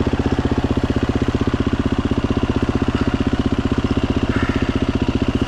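Dirt bike engine running steadily with a fast, even firing beat and no change in pitch.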